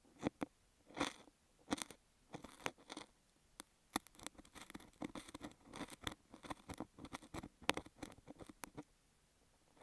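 Kinetic sand rubbed and pressed against an earphone microphone, up close, in irregular short crunching and scratching strokes with sharp clicks among them.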